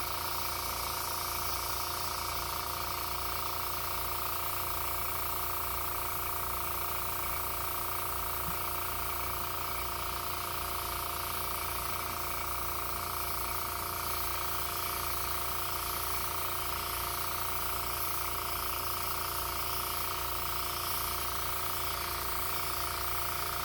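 Airbrush spraying paint, a steady hiss of air over the even hum of its small air compressor running.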